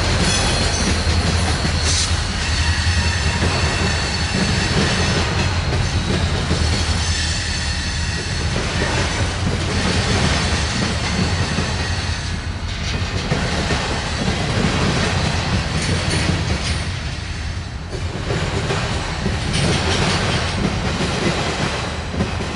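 Freight train cars rolling past: a steady rumble of steel wheels on the rails with clickety-clack and a faint, thin wheel squeal.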